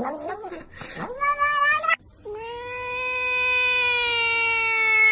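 Cat yowling: a wavering call that dies away, a short held call cut off about two seconds in, then one long, steady, drawn-out yowl.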